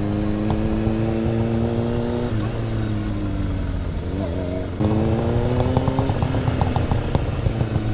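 Motorcycle engine pulling under acceleration, its pitch climbing steadily. It dips at a gear change about two and a half seconds in, then comes back louder and climbs again from about five seconds in.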